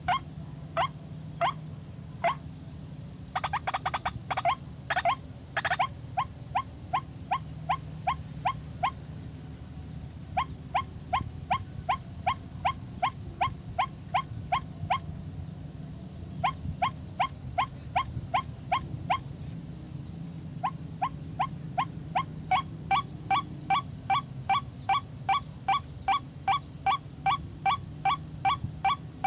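White-breasted waterhen calling: a long series of short, rising 'kwak' notes at about two a second, with a rapid cluster of notes a few seconds in and a few brief pauses. A steady low hum runs underneath.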